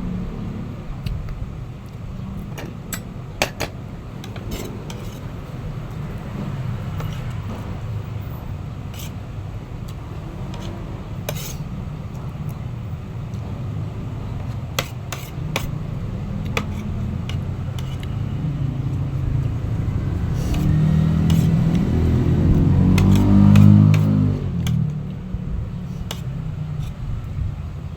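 Steady low rumble of a motor vehicle, with an engine note that rises and then falls as it swells to its loudest about 23 seconds in. Scattered light clicks and taps sound throughout.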